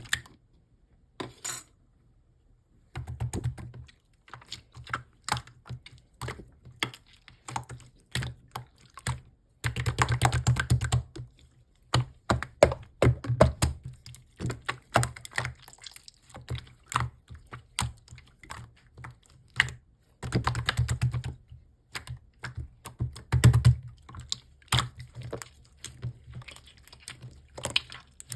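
Slime being squished and pressed by hand, giving rapid sticky clicks and pops. The clicks come in denser runs about three seconds in, around ten seconds, and twice after twenty seconds.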